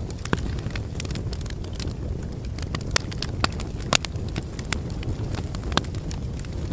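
Wood fire burning in a fireplace: a low, steady rumble of flames with frequent sharp crackles and a few louder pops from the burning logs.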